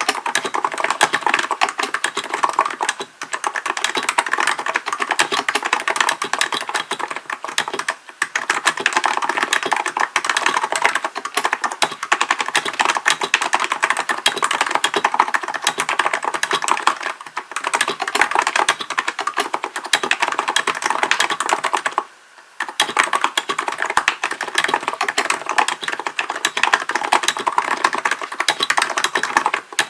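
Continuous fast typing on a Hansung GK898B electro-capacitive (Topre-style) keyboard: a dense stream of key clacks, broken by a few brief pauses, the longest a little over two-thirds of the way through.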